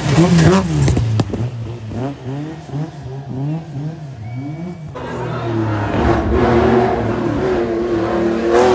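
Rally car engines at full throttle: one car's engine revs up and down through repeated gear changes, with a few sharp cracks in the first second, and fades away; about five seconds in, another car's engine grows louder as it approaches.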